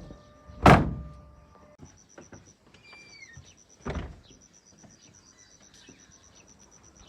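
Two heavy thumps about three seconds apart, the first much louder. Behind them is a steady, pulsing trill of crickets.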